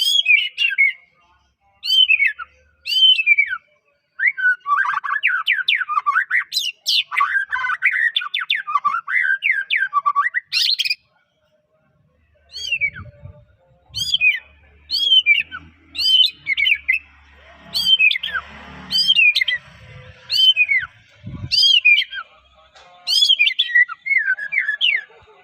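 White-rumped shama (murai batu) singing loud, clear whistles that slide downward, about one a second. The whistles are broken by a fast, dense warbling run in the first half, then a short pause. Faint low thuds come under the whistles in the second half.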